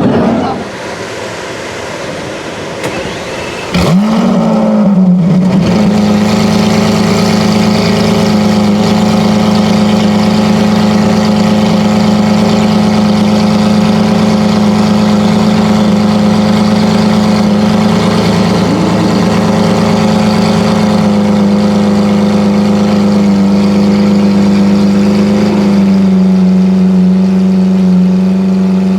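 Lamborghini Aventador V12 starting up: about four seconds in it fires with a sudden loud bark and a quick flare of revs, then settles into a steady high idle that drops a little near the end.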